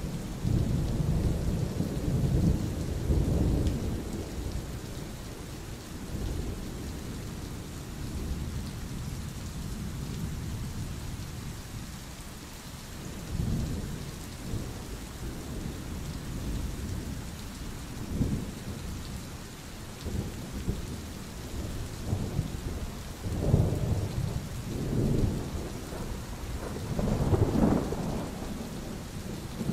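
Steady rain hissing with thunder rumbling over it: a long low roll at the start, then several shorter rumbles through the second half, the strongest about two-thirds of the way in and near the end.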